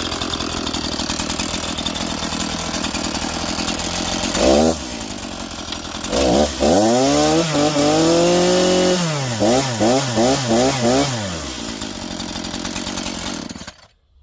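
Echo CS-490 two-stroke chainsaw idling, blipped once, then revved up and held high, followed by about six quick throttle blips before dropping back to idle. The engine cuts off suddenly near the end.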